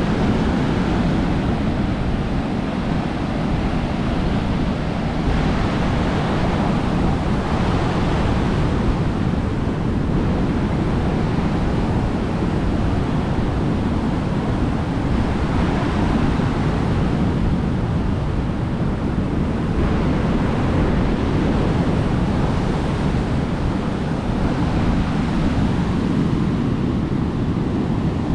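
Rough, storm-driven surf breaking on a beach, swelling and easing every few seconds, with heavy wind buffeting the microphone.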